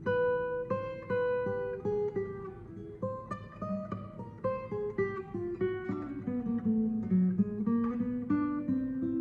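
Eastman E2OM steel-string acoustic guitar played as a melody of single picked notes ringing over a held lower note. The line steps downward through the middle and climbs back up near the end.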